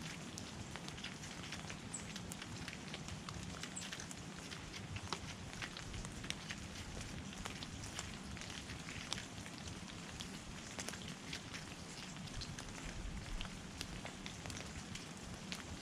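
Quiet outdoor ambience: a steady faint hiss full of small irregular ticks and crackles, with a couple of brief, very high bird chirps in the first few seconds.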